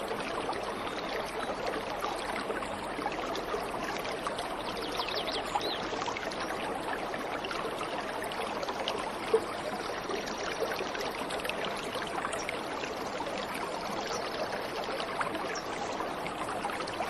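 Steady rush of waterfall water, with a few faint bird chirps and one short click about nine seconds in.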